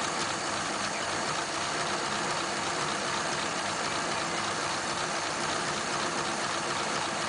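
1941 Ford pickup's flathead V8 idling steadily, warm and running cleanly after the carburetor flooding was sorted.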